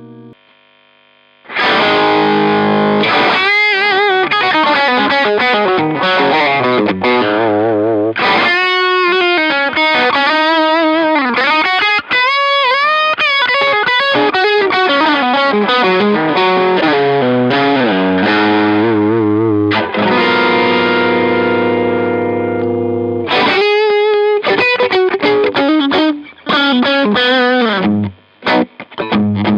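Fender Custom Shop Telecaster electric guitar played with overdrive, starting about a second and a half in: lead lines with string bends and vibrato, alternating with held chords, with a few short breaks near the end.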